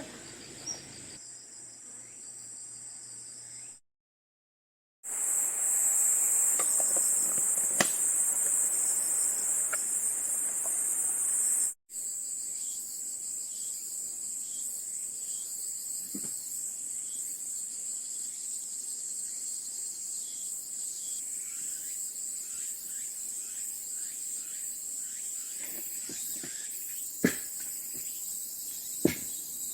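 A steady high-pitched chorus of insects, with a short drop-out about four seconds in. A few sharp knocks sound near the end.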